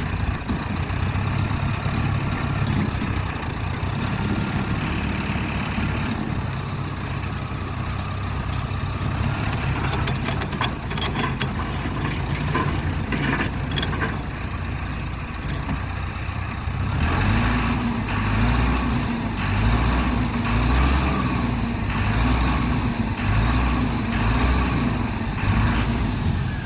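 Mahindra tractor's diesel engine running steadily, with a run of sharp clicks and knocks in the middle. From about two-thirds of the way in, the engine works harder with a louder, pulsing low throb as the tractor-mounted post hole digger is run.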